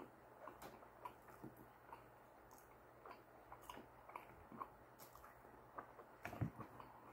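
Faint close-up chewing of sushi: soft, wet mouth clicks scattered throughout, with a louder knock about six seconds in.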